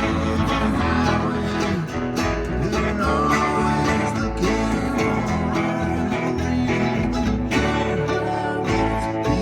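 Live band playing an instrumental passage of a country-rock song, led by guitars over bass and drums.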